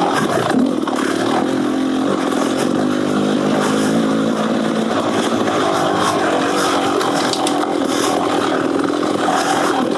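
Beta Xtrainer 300 two-stroke single-cylinder dirt bike engine running through an FMF Gnarly header exhaust, its pitch rising and falling with the throttle as it is ridden.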